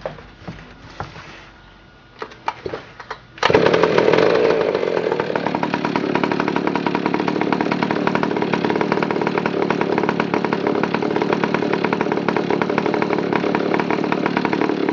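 A few clicks and knocks, then about three and a half seconds in a 1961 McCulloch 185 chainsaw's 95 cc gear-drive two-stroke engine fires and runs. It is loudest for the first second or two, then settles to a steady run.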